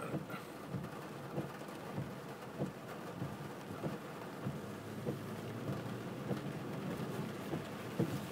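Rain hitting the car body in irregular taps over a steady rushing noise.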